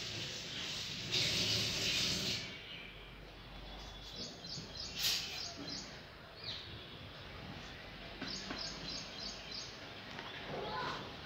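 A small bird chirping in two quick runs of short high notes, about five a second, over steady background noise, with a brief scraping rustle near the start.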